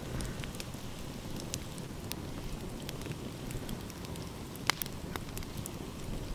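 Wood fire crackling: irregular sharp pops and snaps, one louder about three quarters of the way in, over a steady low rumble of sea and wind.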